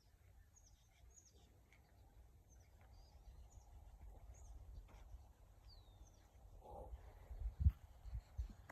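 Small birds chirping outdoors, many short high chirps with one falling whistled note, over a low rumble. Several loud low thumps come in the last second or so.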